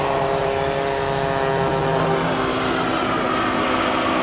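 A radio-controlled model airplane's engine and propeller running in flight: a steady drone made of several pitches. One tone drops out about two seconds in, and a higher tone rises slightly near the end.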